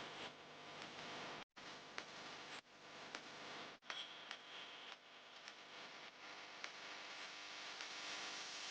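Faint background hiss of a large indoor hall with a few light ticks and clicks.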